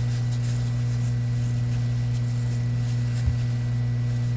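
Steady low hum of an electric motor running, a power tool's motor spinning with nothing being ground or brushed, with one short click about three seconds in.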